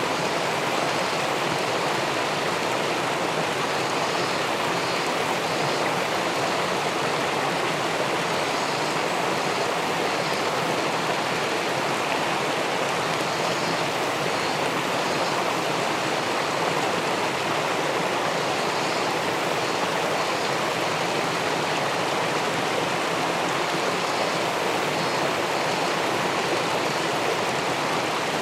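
Steady rush of river water spilling over a small weir into the pool below.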